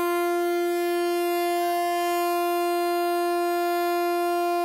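Train locomotive horn sounding one long, steady blast on a single pitch.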